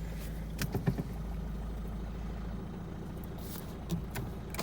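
Citroen C3's 1.6 BlueHDi four-cylinder diesel engine idling steadily, with a few light clicks about a second in and again near the end.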